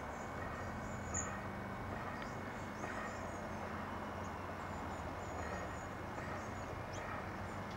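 Faint, thin, high chirps of small birds now and then over steady outdoor background noise, with one short sharp high chirp about a second in.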